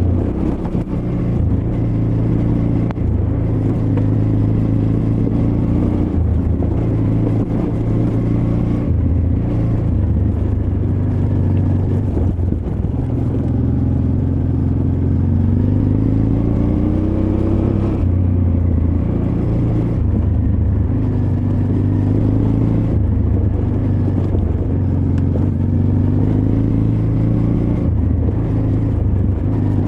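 Honda Transalp XL600V's 583 cc V-twin engine pulling on a rough trail, its revs rising and falling every few seconds as the throttle opens and closes, heard from the rider's backpack.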